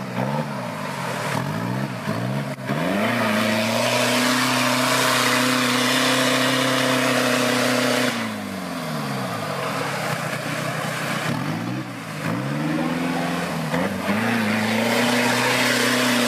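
Off-road vehicle's engine revving hard: a few quick rises and falls, then held at high revs for several seconds, dropping off about halfway, rising again in a couple of surges, and held high again near the end.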